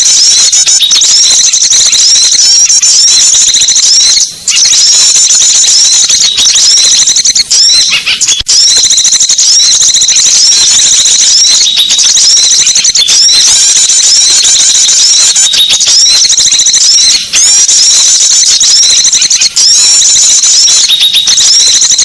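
A dense chorus of small songbirds twittering and trilling in many overlapping high-pitched chirps, from a bird-lure recording for small birds, with a few brief breaks.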